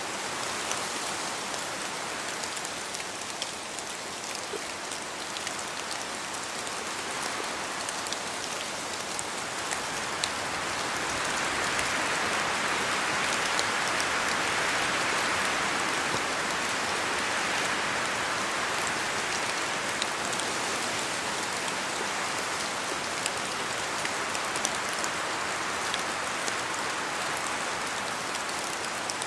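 Steady rain falling on forest foliage, with many separate drops ticking over the hiss; it swells louder for several seconds in the middle, then eases back.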